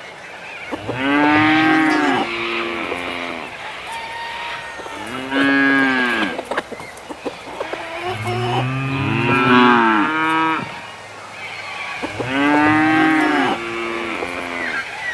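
Cattle mooing, about four long calls a few seconds apart, each rising and then falling in pitch.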